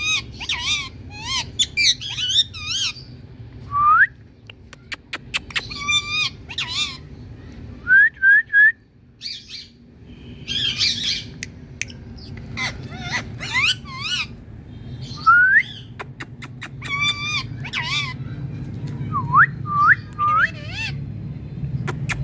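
Indian parakeet calling: repeated harsh squawks and chattering calls in short bursts, mixed with quick rising whistles, over a steady low hum.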